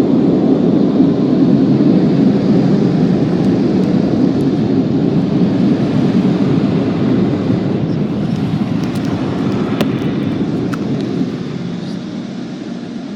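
Loud, steady rushing of tunnel car wash equipment heard from inside a car going through the wash, a few faint ticks about two-thirds of the way in, fading near the end.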